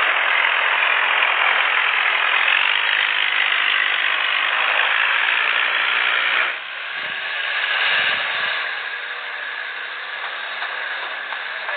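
Tractor engines running hard under load with a rattling mechanical noise; the sound drops abruptly about six and a half seconds in, swells briefly, then carries on quieter.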